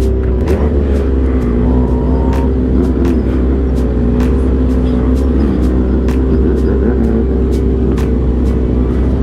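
Car engines running at a steady idle with slight rises and falls in revs, and frequent sharp clicks over the top.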